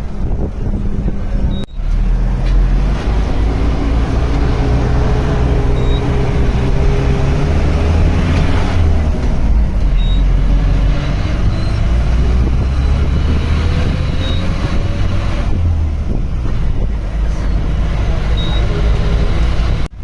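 Safari vehicle's engine running under way, its low drone rising and falling in pitch as the engine speed changes, with a brief break about two seconds in.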